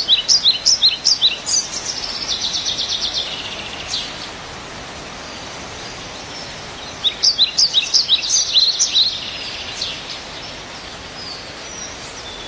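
Birds chirping in quick, sweeping high notes, in two bursts: the first runs into a fast trill, and the second comes about halfway through. Steady outdoor background noise lies underneath.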